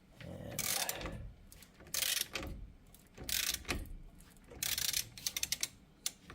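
Ratchet wrench clicking in four strokes about a second apart, the last a longer run of rapid clicks, as it turns a puller screw that presses a seized hub bearing out of the steering knuckle.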